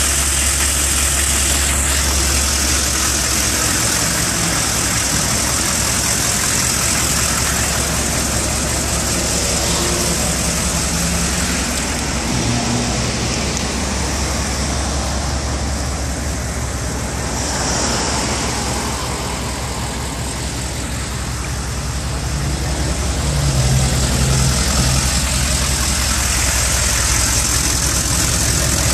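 1996 Chevrolet 3500's 6.5-litre turbo-diesel V8 running steadily.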